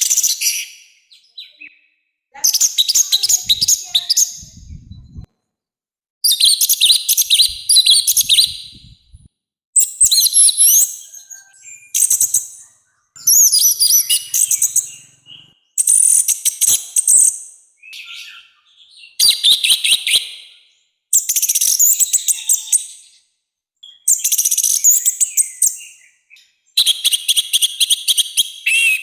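An orange-headed thrush (anis merah) sings loud, harsh (kasar) song phrases. Each phrase is one to two seconds of rapid, high-pitched, varied notes, and about ten phrases follow one another with short pauses between them.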